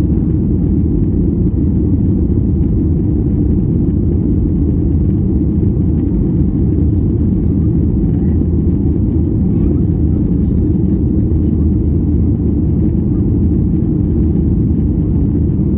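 Steady, loud roar of a Boeing 737-800's CFM56 jet engines and airflow, heard from inside the passenger cabin.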